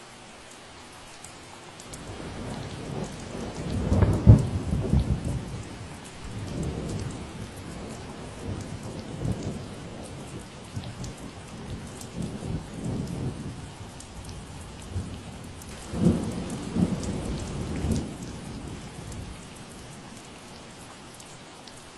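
Steady rain falling, with a long roll of thunder rumbling in about two seconds in. The thunder peaks soon after, swells again in a few cracks later on, and fades out near the end.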